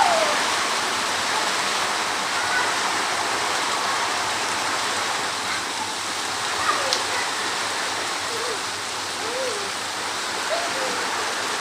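Heavy rain pouring down steadily as a continuous dense hiss.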